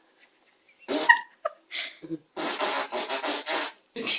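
A person blowing raspberries, lips buzzing against a pet bird's beak: a short buzz about a second in, then a run of about five quick buzzing pulses.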